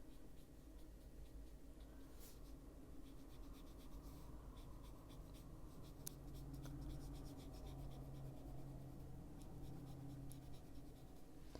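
Faint scratching and rubbing strokes of colouring on paper, in many small irregular scrapes, over a faint steady low hum.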